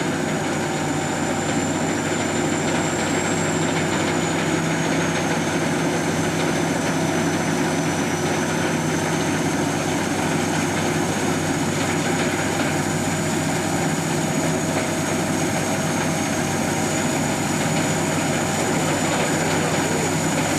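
SS-200 A rice combine harvester running steadily: a constant engine and machinery drone with a thin high-pitched whine that drifts slightly in pitch.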